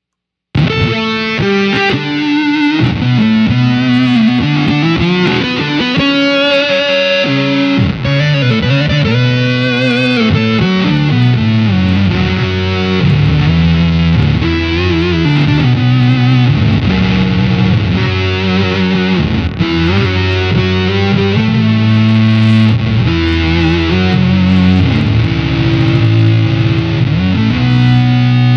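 Electric guitar played through an EarthQuaker Devices Data Corrupter PLL synth/harmonizer pedal: sustained, fuzzy, synth-like notes stacked with harmonies that glide and wobble in pitch, starting about half a second in.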